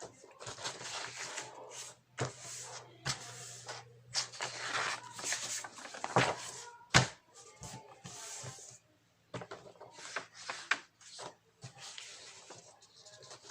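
A sheet of paper rustling and crinkling as it is handled and creased, in uneven bursts with sharp crackles, over a faint steady low hum.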